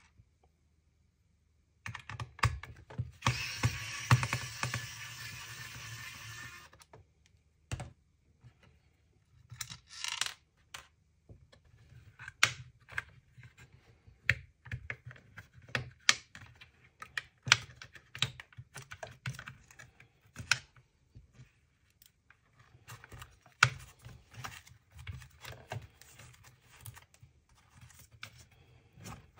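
Hands working on a small plastic device with small tools, making irregular sharp clicks and taps. A few seconds of denser steady noise come before the clicks.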